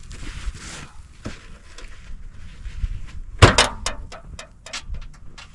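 Handling noise: a rustling hiss, then a loud knock about three and a half seconds in, followed by a quick run of clicks and rattles.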